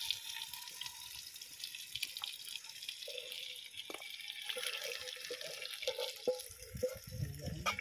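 Marinated chicken, potatoes and onions sizzling in hot oil as they are added to a clay handi pot, a steady hiss with a few soft knocks of handling.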